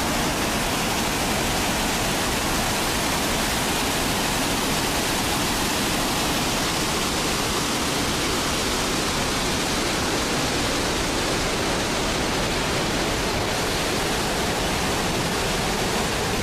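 Large waterfall, Chitrakoot Falls on the Indravati River, with its falling water making a loud, steady, unbroken rush.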